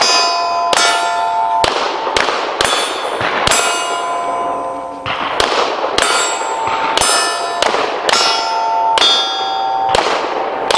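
Rapid pistol shots at steel targets, each followed by the ring of a struck steel plate, about a dozen over the stretch with a short pause near the middle.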